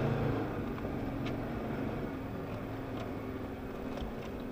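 Off-road 4x4 vehicle's engine running steadily as it climbs over rough woodland ground, with a few faint clicks.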